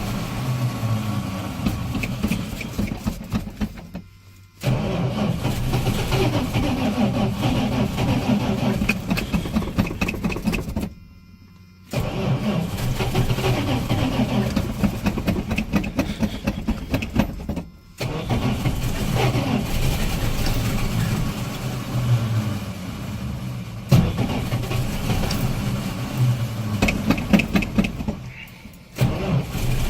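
Dodge Ram's slant-six engine being cranked over by its 12-volt starter in a deep-cold start primed with ether. It cranks in four long stretches of several seconds each, with short pauses between them and a fifth stretch beginning near the end, and has not yet settled into running.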